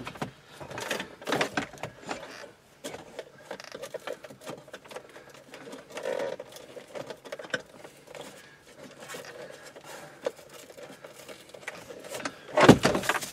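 Plastic wiring connectors and the climate control unit's plastic housing clicking and rattling as the connectors are worked loose from their release tabs, in uneven small clicks and knocks, with a louder clatter near the end.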